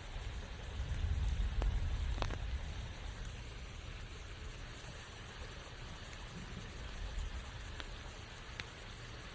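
Steady rain falling in a forest, with scattered single drops landing close by as sharp ticks. A low rumble swells about a second in and fades after a couple of seconds.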